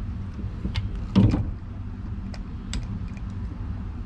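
A few short knocks and clatters of handling in a kayak, the loudest about a second in, over a steady low rumble.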